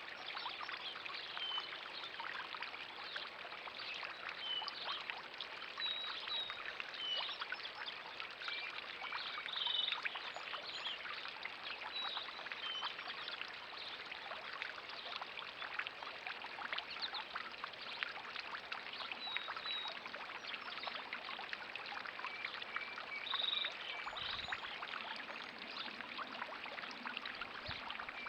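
Steady pouring, splashing water, with short high bird chirps scattered through it every few seconds.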